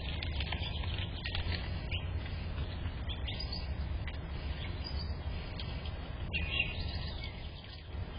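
Small birds chirping in short, scattered calls, with a few faint ticks, over a steady low background hum.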